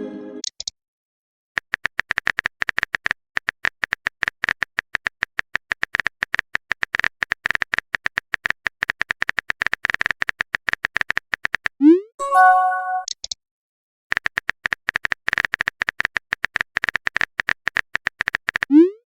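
Rapid electronic typing clicks from a phone chat animation, coming in long runs with short pauses. About 12 seconds in they give way to a message-sent chime: a quick rising swoop, then a few short tones.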